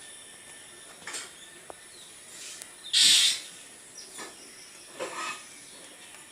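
A drongo giving a few short, harsh, scratchy calls, the loudest about halfway through.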